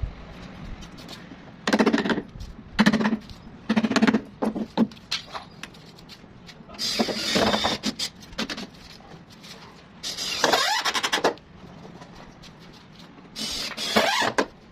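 A power tool running in six short bursts, each starting and stopping abruptly, with a buzzing hum.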